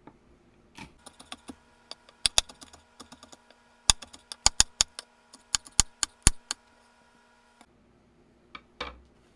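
Kitchen knife chopping vegetables on a cutting board: irregular sharp knocks, a few a second, coming thicker and louder in the middle and stopping a couple of seconds before the end.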